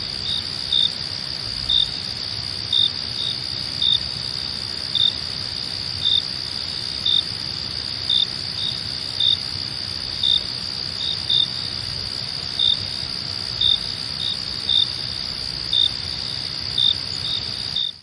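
Night crickets chirping: a steady high trill with a louder chirp about once a second, over a low rumble.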